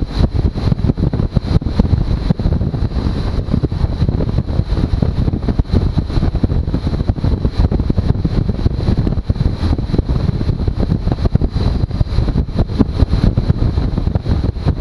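Suzuki V-Strom motorcycle under way, with heavy wind buffeting on the microphone over the engine.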